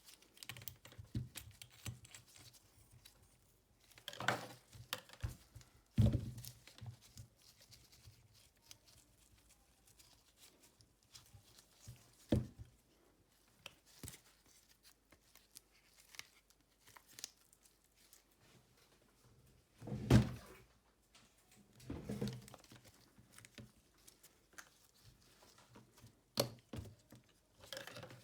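Scattered handling sounds from a smartphone back-cover repair: a few light knocks and taps as the phone and tools are picked up and set down on the work mat, with some rustling and crinkling between them. The two loudest knocks come about six seconds in and about twenty seconds in.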